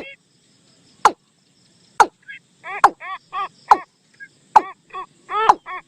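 Bird decoy call recording: short, arched, pitched calls repeated rapidly in runs, with a sharp click about once a second.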